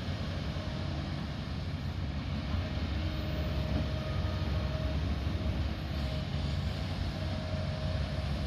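Diesel engine of a heavy earthmoving machine (backhoe loader, excavator or dozer) running steadily under work, a deep continuous rumble with a faint thin whine that comes and goes.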